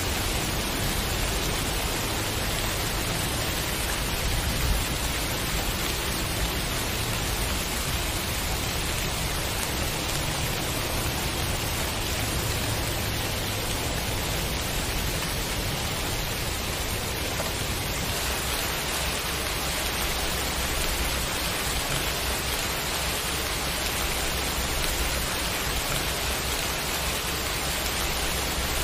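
Steady rain, a dense even hiss, over a low rumble.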